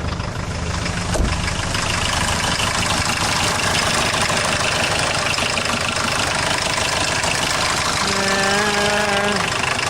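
Four-cylinder diesel engine of a mid-1980s VW Golf idling steadily, with an exhaust leak. A single click sounds about a second in.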